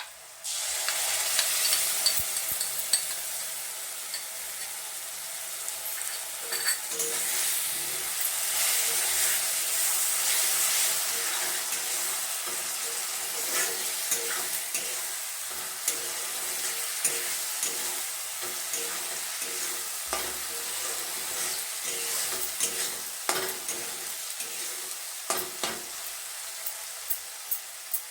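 Onion masala frying in hot mustard oil in a kadhai: a steady sizzle that jumps up sharply about half a second in, with a spatula stirring and scraping against the pan in short clicks throughout.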